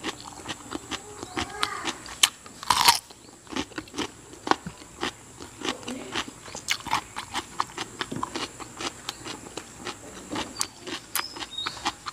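Close-up chewing of a bite of raw cucumber: many irregular crisp crunching clicks, with one louder crunch about three seconds in.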